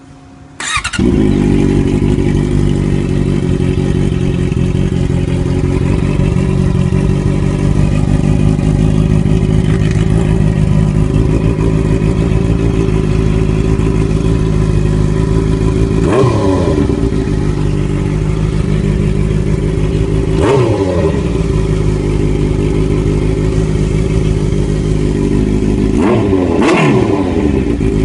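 Honda CBR650F inline-four engine breathing through a handmade exhaust muffler: it fires up under a second in and idles steadily, with three quick throttle blips that rise and fall in pitch about two-thirds of the way through and near the end.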